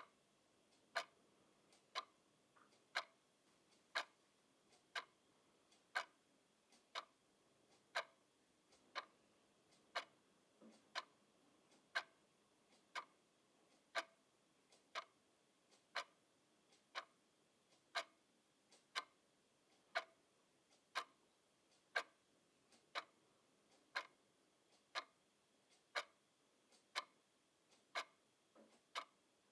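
Clock ticking steadily at about one tick a second, with alternate ticks a little louder, giving a tick-tock rhythm.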